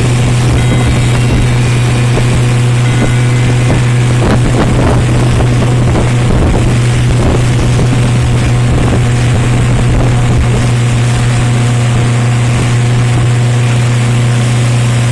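A Neptun 500 motorboat's engine running at a steady speed, a constant loud drone, with wind buffeting the microphone and the rush of water.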